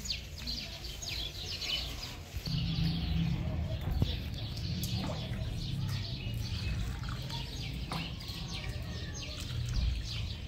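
Small birds chirping in quick, repeated calls that thin out after about two seconds, over a low steady rumble, with a sharp knock about four seconds in.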